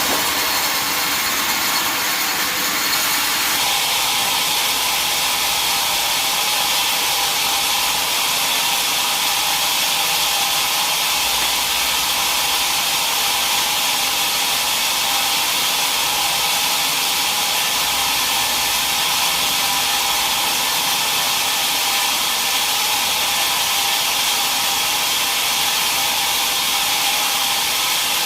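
Sawmill saw running, a loud, steady mechanical noise. It is fuller in the first three seconds or so, then settles into an even, high hiss-like whir.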